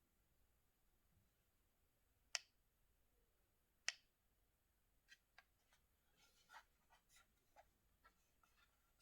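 Near silence broken by two sharp clicks about a second and a half apart, then a scatter of faint small ticks and rustles in the second half.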